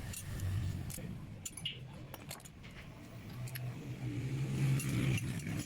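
Metal hand tools and engine parts clicking and clinking in scattered light strikes, over a low hum that grows a little louder in the second half.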